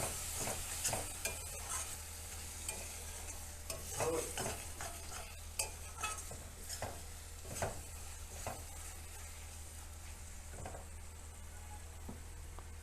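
A spatula stirring and scraping a thick spice masala in a kadai over low heat, with a faint sizzle of the oil the masala has released. The scrapes come irregularly, about one or two a second, and thin out after about nine seconds.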